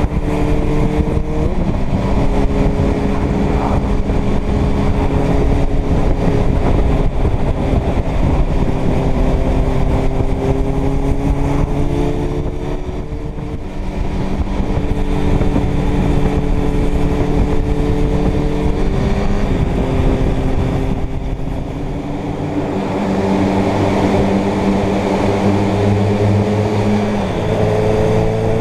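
Inline-four motorcycle engine running under way, its pitch stepping and shifting with throttle and gear changes, over a steady rush of wind noise. It eases off briefly around the middle and again about three quarters through, then rises near the end.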